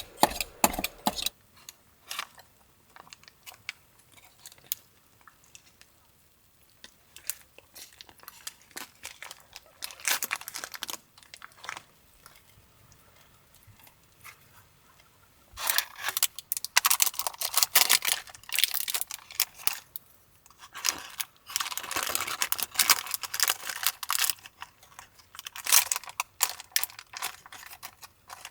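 Close crinkling and rustling handling noises, like packaging or other crinkly material being worked by hand. Scattered crackles come first, then two longer spells of dense crinkling about halfway through and again soon after.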